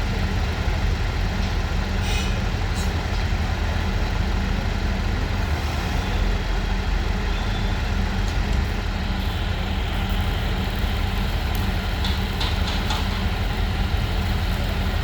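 A heavy engine idling steadily, with a constant low rumble. A few faint high ticks come about two seconds in and again near the end.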